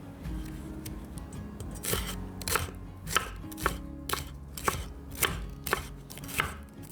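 Knife chopping food on a cutting board in a steady rhythm of about two strokes a second, starting about two seconds in, with soft background music underneath.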